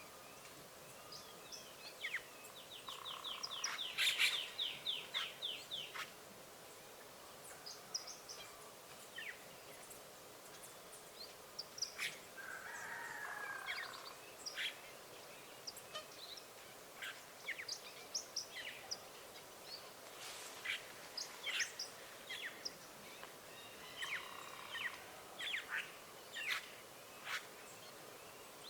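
Wild birds chirping and calling: many short, high chirps throughout, with a quick rattling run of notes a few seconds in and a lower call around the middle.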